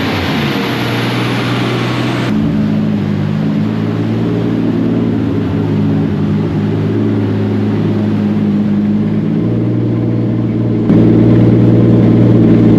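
Turbocharged 2JZ race-car engine running at a steady speed. The sound changes abruptly about two seconds in and gets suddenly louder near the end.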